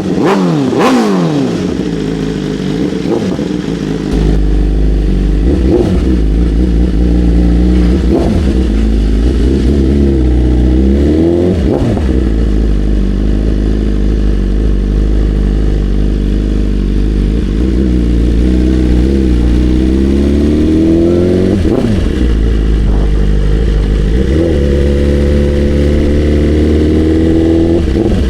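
BMW S 1000 RR inline-four sportbike under way. The engine note drops away at the start, then climbs in several long pulls, each broken by a quick dip in pitch at a gear change. Heavy wind rumble on the microphone runs under it.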